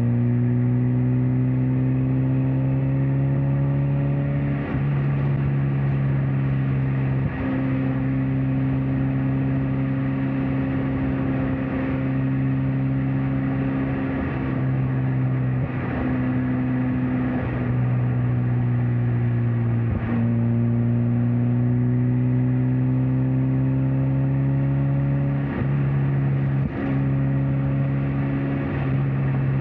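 Mazda Miata NC's four-cylinder engine and exhaust pulling steadily while driving, with road and wind noise. The engine pitch climbs slowly under gentle acceleration at the start and again about two-thirds of the way in, then settles and holds steady.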